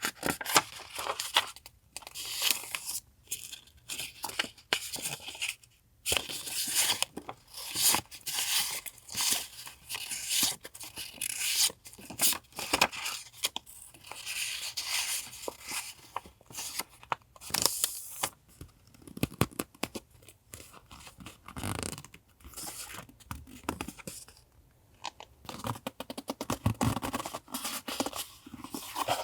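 Paper stationery and its packaging handled close up: irregular rustling, crinkling and tearing with small taps, pausing briefly near the end.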